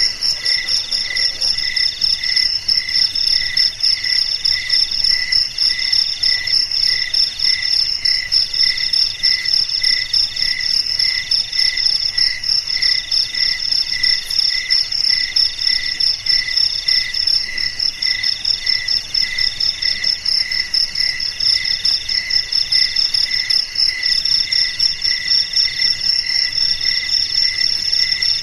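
Chorus of crickets and other insects, several steady trills at different pitches layered together: one chirps about twice a second, another trills in bursts of about a second with short breaks, over a continuous high buzzing trill.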